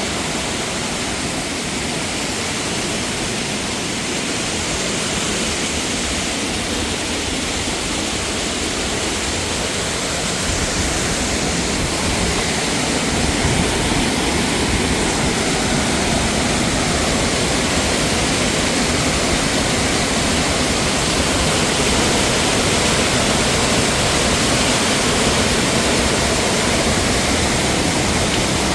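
Waterfall cascading over rocks: a loud, steady rush of falling water that grows a little louder partway through.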